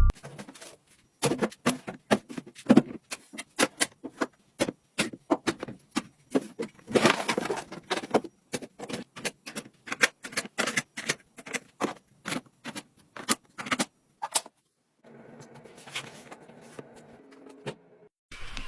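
Irregular clicks and clacks of small containers being handled and set down, many quick knocks in a row. Near the end they stop and a faint, even rustle follows.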